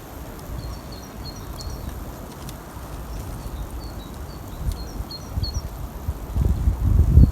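Small birds chirping: many short, high calls repeating over a low rumbling noise that grows louder near the end.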